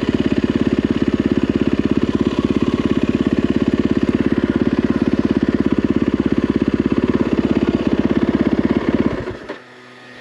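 Yamaha WR450F single-cylinder four-stroke dirt bike engine running at a steady idle with an even, rapid pulse, then switched off about nine seconds in, cutting out abruptly.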